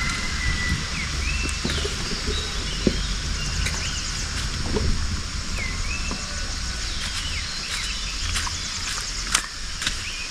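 Countryside ambience: a bird calling several times with short whistled notes that swoop up and down, over a steady hiss, with a low rumble underneath.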